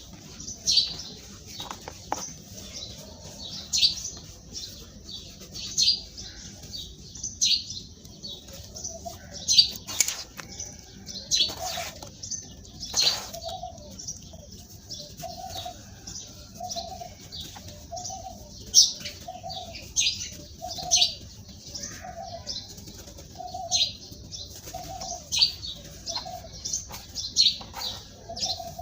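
Birds chirping again and again in short, sharp high notes. From about halfway, a lower short call repeats about once a second.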